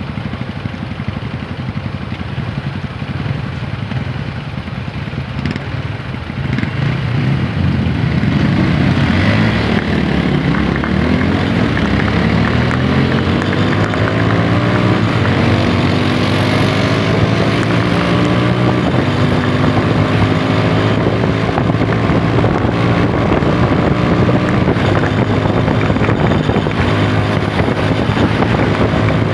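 TVS Apache 160 4V's single-cylinder engine: running low and steady at first, then getting louder about six seconds in and rising in pitch as the bike accelerates, before settling into a steady cruise. Wind buffets the helmet-mounted microphone.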